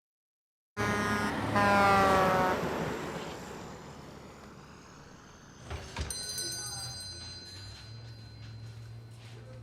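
Film sound effects: a sudden loud rush with a set of falling ringing tones comes in just under a second in and fades over several seconds. About six seconds in there is a sharp knock, followed by a small bell ringing.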